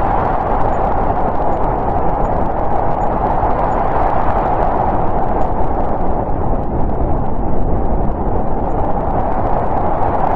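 Snowstorm wind sound effect: a steady rushing wind with a low rumble underneath.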